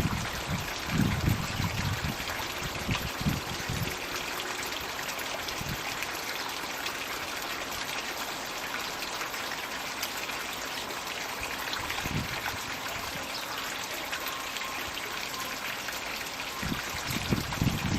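Steady trickling and splashing of water from a floating Magic Bucket water feature running in a garden pond. A few short low thumps or rumbles come in the first few seconds and again near the end.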